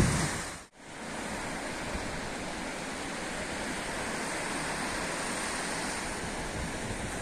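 The sound drops out briefly under a second in, then sea surf hisses steadily.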